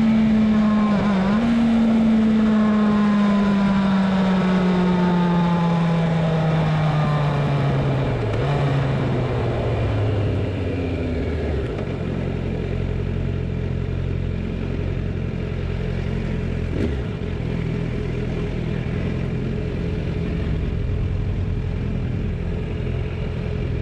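Yamaha FZ1 Fazer's inline-four engine, its note falling steadily for about ten seconds as the revs drop, then settling into a steady low idle.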